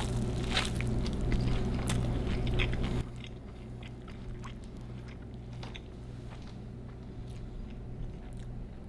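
Close-up biting into and chewing a mouthful of a cheese-crusted burrito, with soft crunches and wet mouth clicks. About three seconds in, a low hum behind it cuts off and the chewing goes on more quietly.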